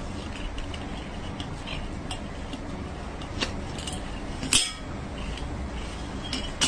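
Scattered light clicks and taps over a steady low background noise, with one louder knock about four and a half seconds in.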